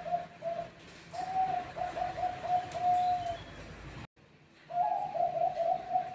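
Zebra dove (Bangkok perkutut) cooing in quick strings of short, even notes at one pitch. One phrase ends in a longer held note about three seconds in. After a sudden cut to silence just past four seconds, a new phrase starts near the five-second mark.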